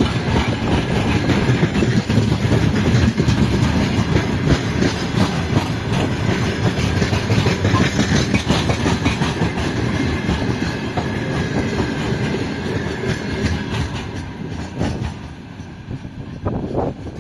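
Freight train wagons rolling past at speed, their wheels clattering over the rails in a dense stream of knocks. The sound thins out and fades over the last few seconds as the train moves away.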